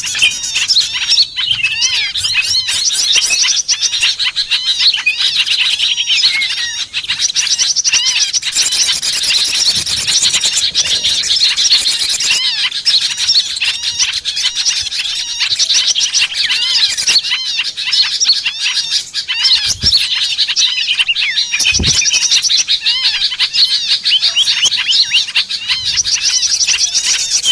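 Dense chorus of many small songbirds chirping and chattering rapidly over one another: a noisy bird-lure (pikat) recording of excited small birds, used to draw wild birds down. Two brief low thumps come near the end.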